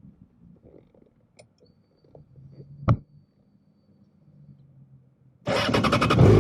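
A few faint clicks and one sharp click about three seconds in. Near the end, a motorcycle engine comes in suddenly and loudly, its pitch rising and falling as it is revved.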